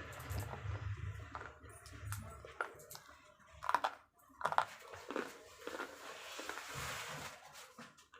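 Slate pencils bitten and crunched between the teeth: a series of sharp, crisp crunches, the loudest about four seconds in.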